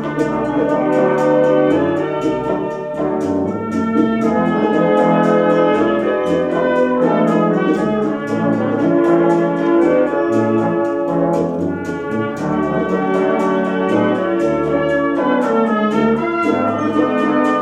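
Military band playing live: trumpets and trombones carry the tune over low brass, with a steady percussion beat.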